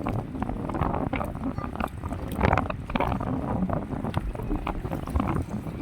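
Wind buffeting the microphone over moving water, an uneven low rumble with scattered small knocks.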